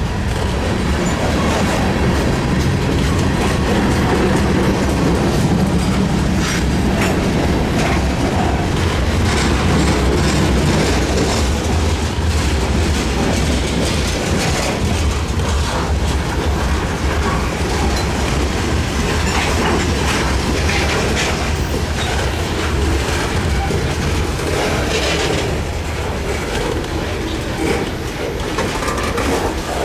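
Freight train's cars rolling past, wheels clicking over the rail joints over a steady low rumble. A low engine hum sits under it for the first several seconds.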